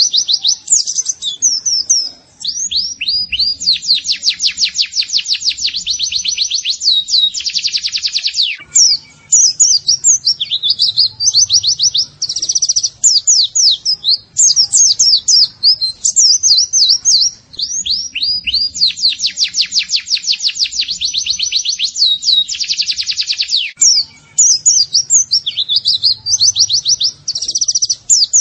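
Pleci (white-eye) song: fast, high twittering chirps broken by long rapid trills. The same sequence comes round again about every sixteen seconds, as in a looped masteran training recording.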